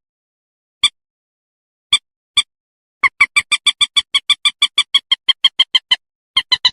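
Common moorhen calling, played as a bird-trapping lure: a few single, sharp, clipped notes with dead silence between, then from about three seconds in a fast, even run of about seven notes a second, which breaks off briefly and starts again near the end.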